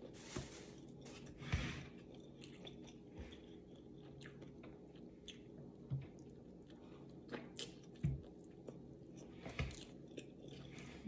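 A person chewing and biting food close to the microphone, with a steady faint hum under it. Short clicks run throughout, and a few louder knocks come at intervals.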